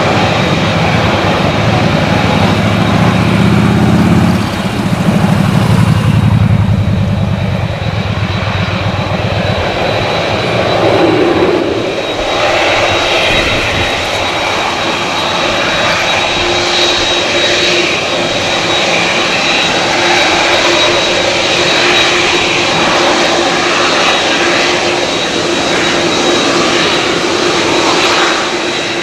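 Airliner engines at close range. An ATR 72-600's twin turboprops give a low, pulsing drone that dies away over the first several seconds. From about twelve seconds in, a Boeing 787-10 Dreamliner's jet engines build into a loud, steady rush with a held whine.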